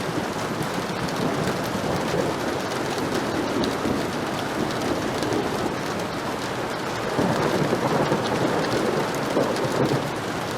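Heavy rain falling steadily, with thunder rolling underneath; the rumble swells louder from about seven seconds in and eases off near the end.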